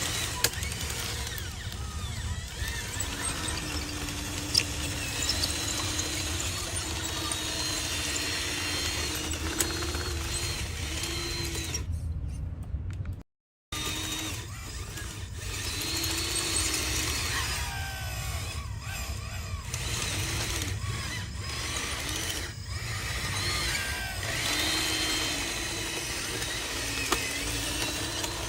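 Electric motors and gearboxes of radio-controlled construction models whining, the pitch rising and falling as they speed up and slow down. The sound cuts out briefly about twelve seconds in.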